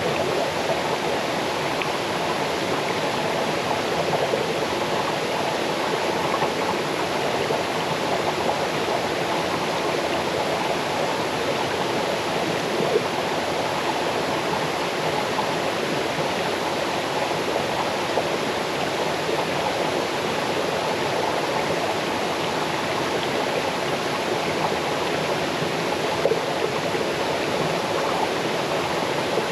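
Small waterfall cascading into a forest stream: a steady rushing of water with a babbling splash now and then.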